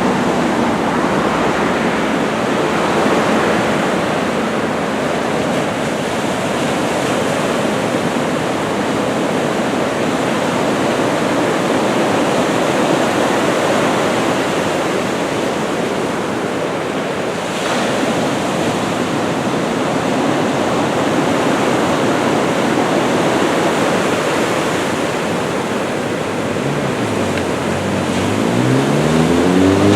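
Ocean surf from a typhoon swell, waves breaking and washing in a steady rushing noise. Near the end a passing motor vehicle comes in, its engine pitch dipping and then rising.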